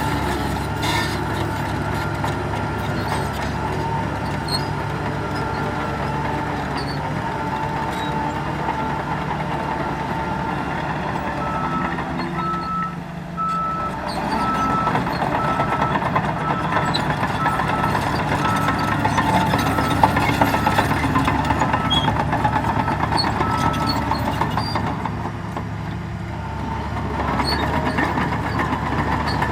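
Heavy diesel engines of a bulldozer and dump trucks running on a stone-filling job. Through the middle a reversing alarm beeps about once a second, the sign of a machine backing up.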